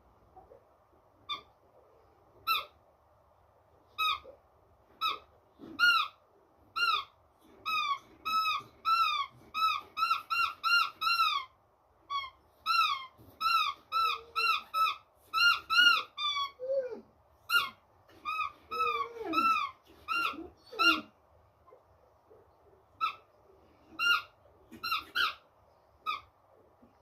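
A dog chewing a squeaky toy ball, squeezing out short squeaks that rise and fall in pitch. A few come singly at first, then they run in quick bursts of several a second through the middle, thinning out again near the end.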